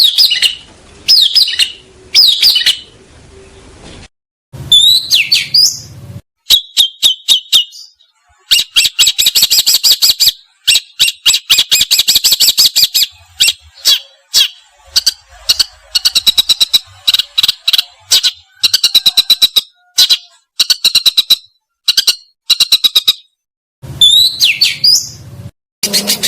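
Songbirds calling loudly: sharp sweeping whistles and long runs of rapid chattering trills, in short recordings cut one after another, with abrupt breaks between them.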